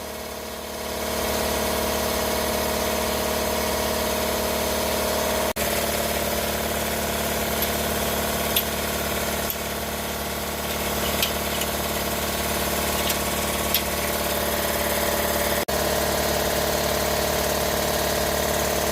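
Steady machine hum that holds one even pitch throughout, with a few faint light clicks in the middle.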